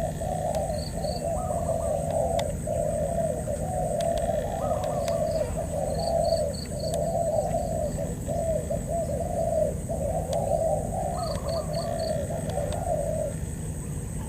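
Male spotted doves cooing almost without pause, one coo phrase following another, with a few faint high chirps from small birds now and then.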